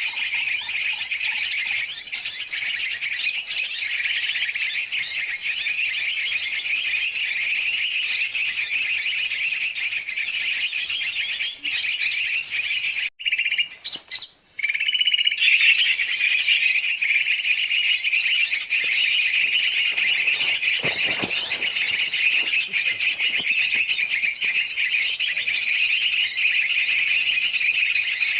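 Bird-lure recording: dense, noisy chattering and chirping of many small and large birds mixed together, played to draw birds in. The chorus cuts out briefly about 13 seconds in, then resumes.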